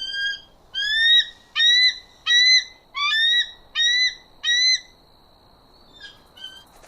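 A bird calling: a quick series of about seven loud, clear notes, each rising slightly, roughly one every 0.6 seconds, stopping about five seconds in, then two faint short calls near the end.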